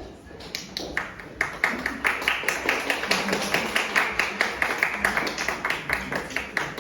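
Audience applauding. The clapping starts about half a second in, is dense through the middle, and thins out near the end.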